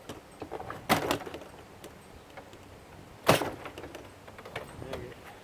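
Knocks and clanks of a dishwasher being taken apart by hand, with two sharp loud impacts, about a second in and just after three seconds, among smaller rattles and clicks.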